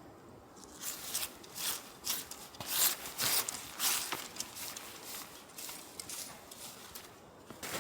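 Footsteps crunching on the ground, about two steps a second, starting about a second in.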